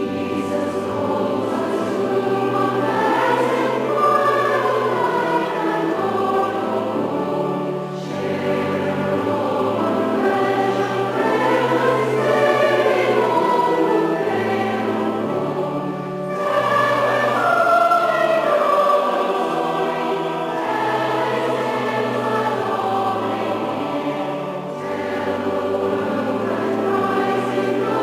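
Choir singing a hymn in harmony over a steady low accompaniment, phrase after phrase, with short breaths between lines.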